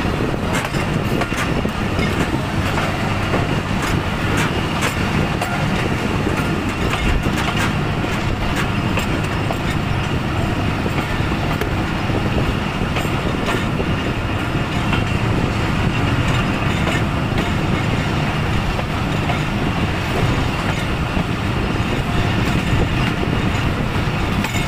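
Sir Syed Express passenger coach running along the track, heard from an open window: a steady rumble of wheels on the rails with scattered light clicks.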